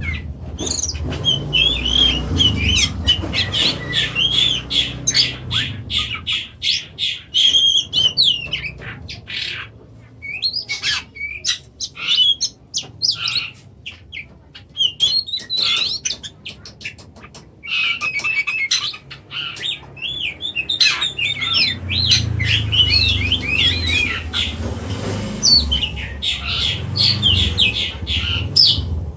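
Oriental magpie-robin singing: fast, varied warbled phrases mixed with dry clicking notes. Partway through it thins to scattered clicks for several seconds, then the full song resumes.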